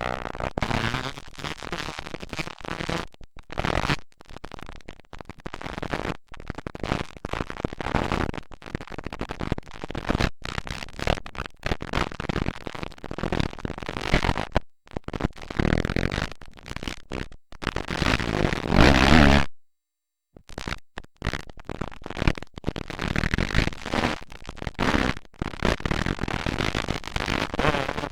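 Motocross dirt bike engines racing, the sound rough and chopped into short, uneven bursts with gaps, loudest just before a complete dropout of about a second some two-thirds of the way through.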